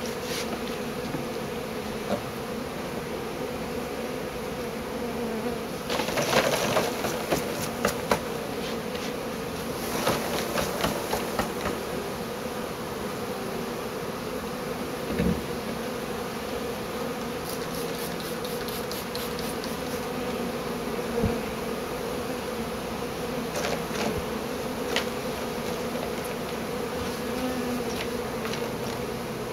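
A large honeybee swarm buzzing with a steady hum. Bursts of rustling and clicking from handling near the bees break in about six seconds in and again around ten seconds, with a few single clicks later.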